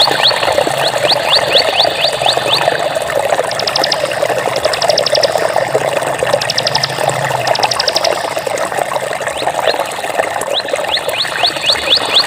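Steady rushing of running water. Over it, runs of short high chirps that sweep upward, a few a second, at the start and again near the end, and four brief rapid trills in the middle.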